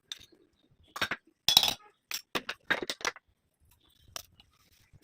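Kitchenware clinking and knocking: a quick run of sharp clinks starting about a second in, the loudest around a second and a half, and one last clink near the end.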